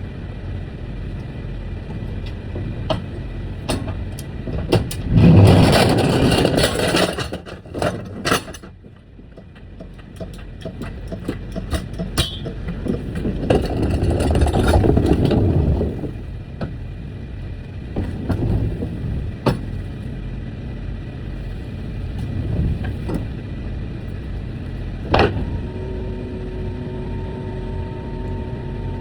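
Truck engine and road noise while driving: a steady low rumble with two louder stretches of noise, about five and about thirteen seconds in. Scattered short clicks are heard, and a steady tone comes in near the end.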